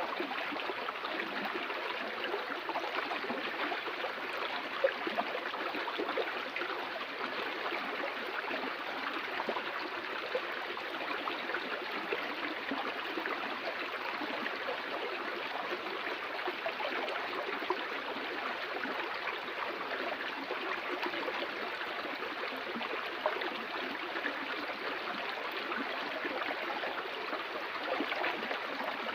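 Flowing water of a stream, a steady even rush, with a couple of brief louder splashes.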